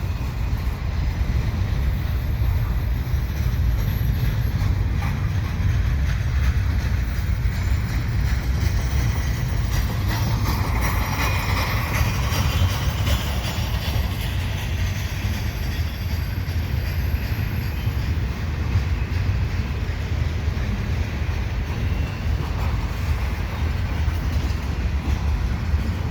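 CN double-stack freight train rolling slowly past: a steady low rumble of wheels on rail, with a stretch of higher-pitched rail noise partway through.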